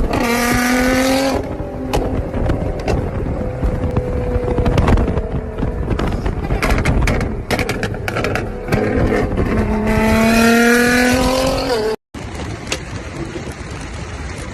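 Nissan GT-R's loud exhaust revving up with a rising pitch, then a run of sharp pops and crackles, then another rising rev. About twelve seconds in it cuts abruptly to a quieter, steadier engine sound.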